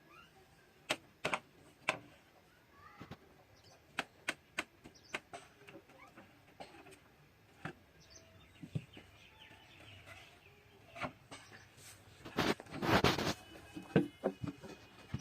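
Irregular light knocks and clicks, with birds chirping faintly in the background. About twelve seconds in comes a louder rasping, scraping noise lasting a second or so.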